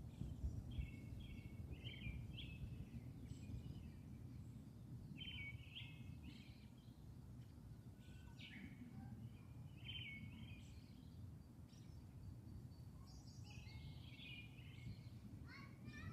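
Small birds chirping in short scattered phrases over a steady low outdoor rumble.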